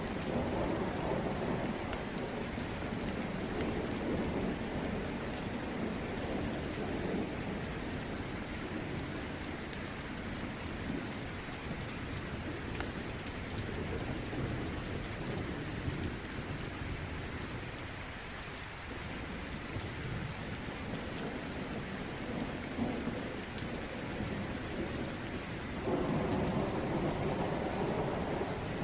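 Steady rain falling, with low rolls of thunder: one rumbling through the first several seconds and another breaking in suddenly near the end.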